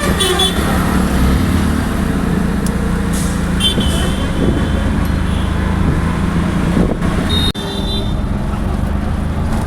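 Engine and road noise from a moving auto-rickshaw in traffic, with short horn toots about four seconds in and again near the end.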